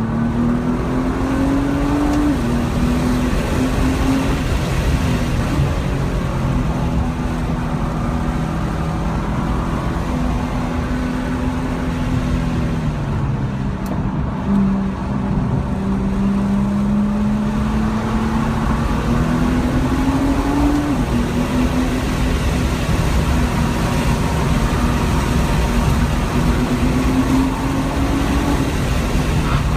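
2014 Nissan GT-R's twin-turbo 3.8-litre V6 heard from inside the cabin while driven hard on track. The engine note climbs under acceleration and drops suddenly at upshifts, shortly after the start, about two-thirds in and near the end. It sinks as the car slows for a corner about halfway through, over steady road and wind noise.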